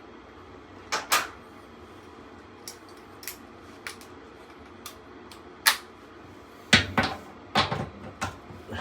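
Hand tools clinking and knocking on a furnace blower assembly as it is unbolted for cleaning: scattered single knocks, then a quicker run of them near the end.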